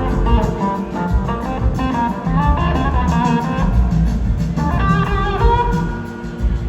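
Live rock band playing: an electric guitar carries a melodic lead line over bass and drums.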